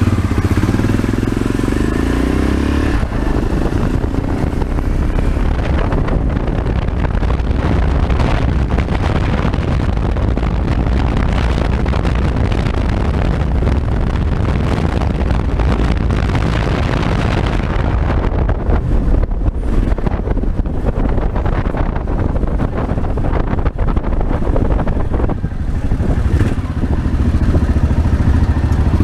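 Yamaha Ténéré 600 single-cylinder motorcycle engine, heard from the bike's onboard camera. It sits running at a stop, pulls away about three seconds in, and carries on running through town traffic.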